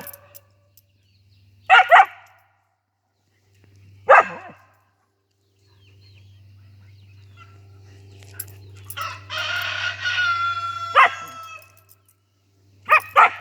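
A husky barking in short bursts (a quick double bark, a single bark, then another double bark near the end) and a rooster crowing once, a long call of about two and a half seconds in the middle.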